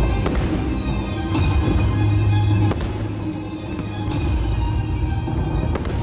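Aerial firework shells bursting, about five sharp bangs each trailing off into a crackling smear, over steady music.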